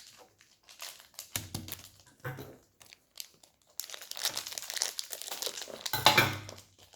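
Toy blind-pack packaging crinkling and tearing as a pack is ripped open and handled: scattered crackles that thicken into dense rustling over the last three seconds.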